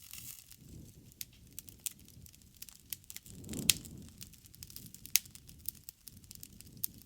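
Wood bonfire crackling, with sharp snaps and pops scattered irregularly over the low rumble of the flames. The loudest pop comes a little past halfway, on a brief swell of the low flame rumble.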